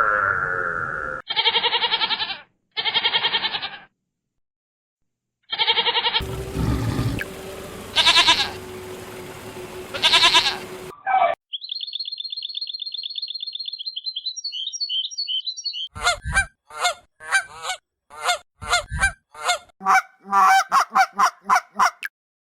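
A string of animal calls from several short clips, cut in and out abruptly with brief silent gaps. About halfway through there is a long high trilling call, and near the end comes a quick series of short sharp calls.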